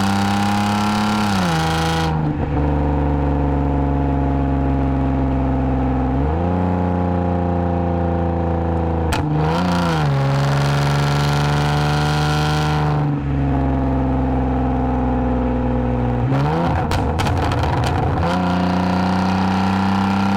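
Lexus IS250's V6 engine and aftermarket exhaust droning at steady cruise. The pitch holds for a few seconds at a time, then drops and climbs again several times with gear changes and throttle. A rougher, clattering stretch comes about three-quarters of the way through.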